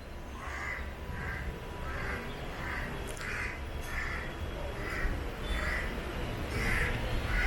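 Crows cawing in a steady series, about one caw every 0.7 seconds, over the low rumble of the DEMU train running slowly.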